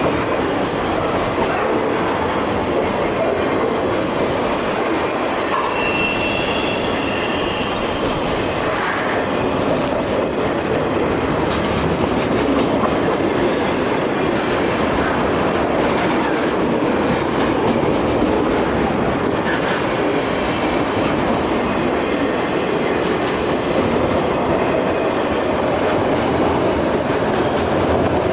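Southern Pacific freight train rolling past: a steady rumble of steel wheels on rail with clickety-clack over the rail joints, and a brief faint wheel squeal about six seconds in.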